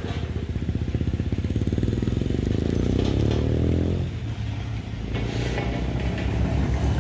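A vehicle engine accelerating, its pitch rising steadily for about four seconds before it drops away.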